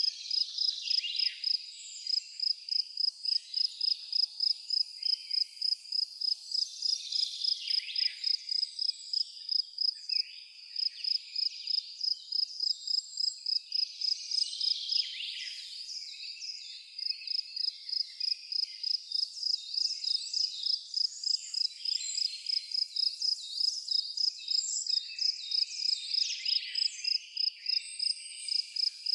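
A cricket chirping in an even, high-pitched rhythm of about three chirps a second, stopping briefly twice, with birds singing varied, warbling songs over it.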